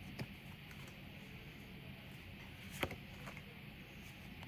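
Quiet room tone with two soft clicks, one just after the start and one near three seconds in, from trading cards being handled and flipped.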